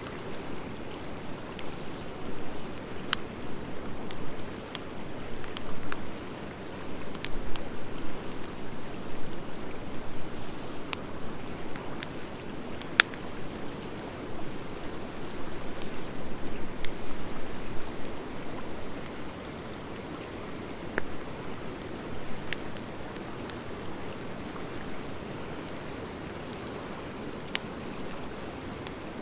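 Wood fire of driftwood and dry hardwood logs burning: a steady, rising and falling rush of flames with scattered sharp pops and crackles from the hardwood.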